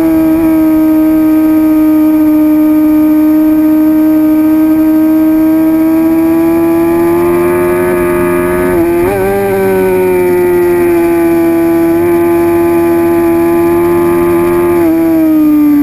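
2006 Suzuki GSX-R750's inline-four engine running under load with the revs held nearly steady. The pitch wavers briefly about nine seconds in, then the revs drop near the end.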